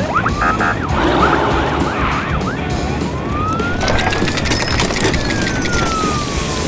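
Cartoon emergency-vehicle siren: quick rising-and-falling yelps for the first couple of seconds, then one slow wail that rises and falls.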